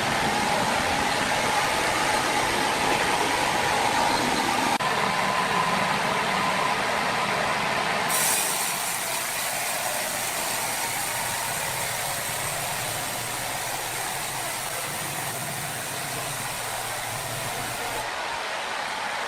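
Sawmill machinery running with a steady mechanical noise and a faint whine in the first half. The sound changes abruptly about five seconds in, again about eight seconds in, and near the end.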